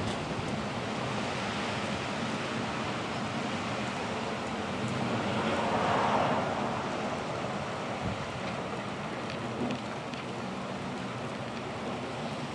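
Strong gusty wind blowing and rushing, with a louder swell about halfway through.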